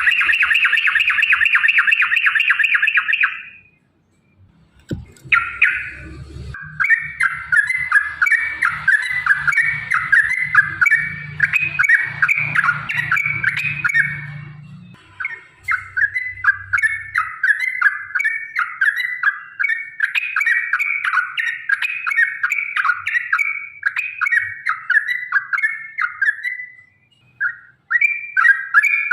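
Yellow-vented bulbul (trucukan) singing: a fast, dense trill for about three seconds, then after a short pause long runs of quick, bubbling chattering notes that break off briefly twice. A faint low rumble sits under the song in the first half.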